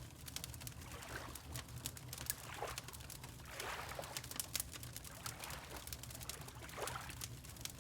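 Water lapping in soft washes, about four in a few seconds, over a wood fire crackling with frequent sharp pops and a steady low rumble.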